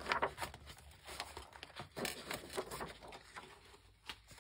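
Sheets of paper being handled and shuffled, with irregular light rustling and small taps.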